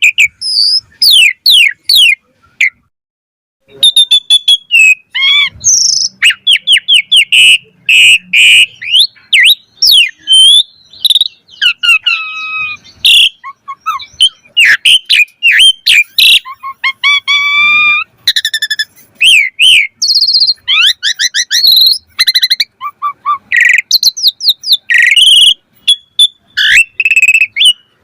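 Asian pied starling (jalak suren) singing a long, varied song of clear whistles, rapid chattering notes and sweeping slurs, pausing for about a second near the start.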